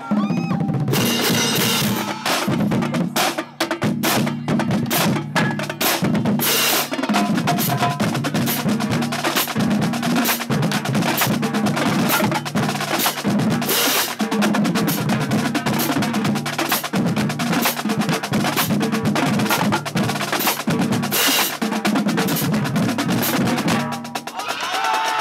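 Marching drumline playing a cadence: fast snare drum strokes and rolls over repeating runs on the pitched bass drums, with a few louder crashes. The playing stops near the end and crowd cheering breaks in.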